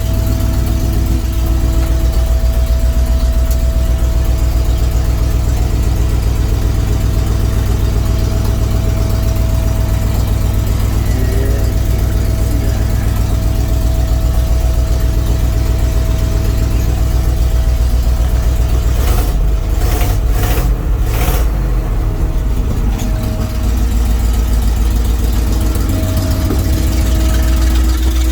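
1977 Chevrolet C65 truck's engine, a 366 V8 by the seller's reckoning, running steadily. Three or four sharp knocks come close together about two-thirds of the way through.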